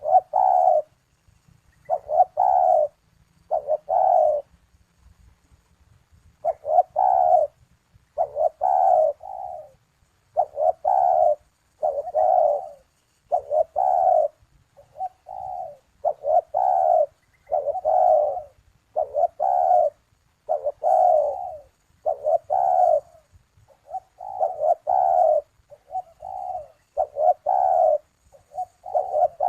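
Puter doves cooing: a long series of short coos, roughly one a second, broken once by a pause of about two seconds a few seconds in.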